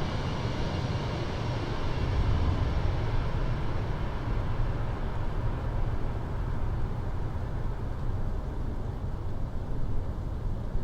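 Steady low rumble of an airliner landing in strong wind, with no distinct tones or bangs.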